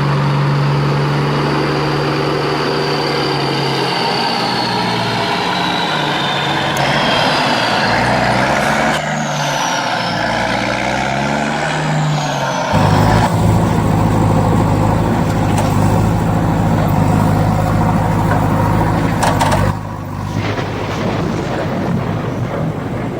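A vehicle motor running, its pitch rising and falling, with a high whine sliding up and down; the sound changes abruptly about thirteen seconds in and again near twenty seconds.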